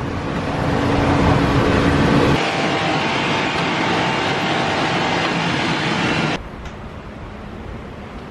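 Steady noise of a moving vehicle in travel footage. It changes abruptly about two and a half seconds in, and drops to a quieter noise about six seconds in.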